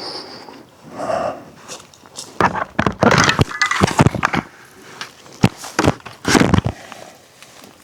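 Irregular footsteps and scuffing, with several knocks and thuds, loudest in two spells in the middle and near the end.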